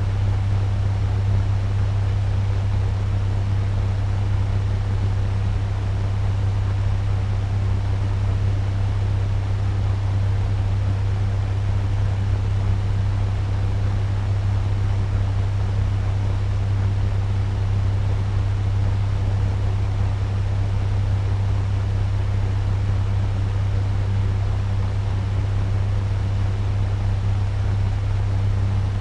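Turbo fan running steadily at medium speed: an even rush of air with a strong low hum underneath.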